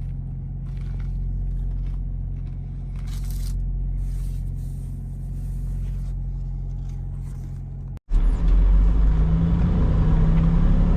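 Truck's diesel engine idling steadily with a low hum. About eight seconds in, a sudden cut gives way to the engine running louder and heavier under way, its pitch rising briefly and then holding.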